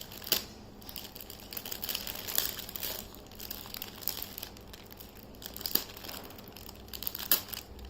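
Firecracker packaging being handled and opened, crinkling, with scattered sharp crackles and clicks.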